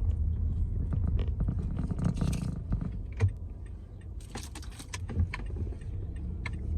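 Paper bag and food packaging rustling and crinkling as the food is handled, with scattered clicks and two bursts of crackling, over the low rumble of a car cabin.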